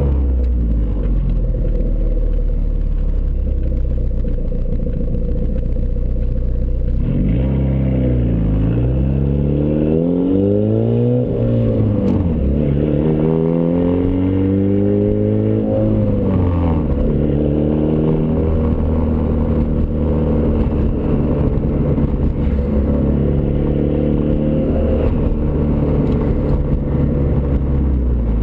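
Turbocharged Ford Escort ZX2's four-cylinder engine running through a custom 3-inch side-exit exhaust. It holds a steady low drone, then from about seven seconds in the engine speed rises and falls several times before settling steady again for the last ten seconds.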